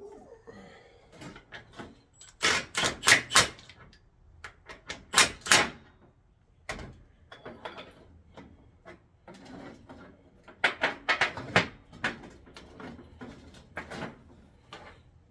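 Sharp metal knocks and clanks from hand tools working on a car's upper control arm, in several quick clusters of three to five strikes with quieter taps between.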